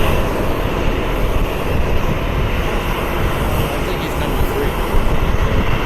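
Jet airliner engines running with a steady, unbroken noise.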